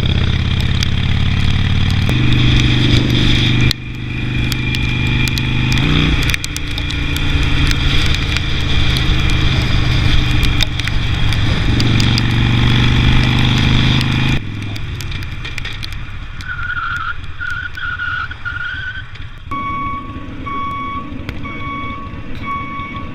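Motorcycle engine pulling hard through the gears, its note dropping at each upshift, then easing off to a quieter cruise. Near the end an electronic beep repeats evenly, about once every three-quarters of a second.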